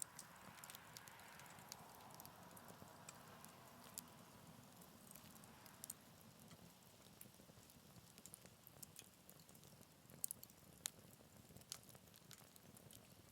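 Faint crackling of a wood campfire burning in a Picogrill 398 fire pit: scattered sharp pops and snaps over a low steady hiss, with a few louder pops.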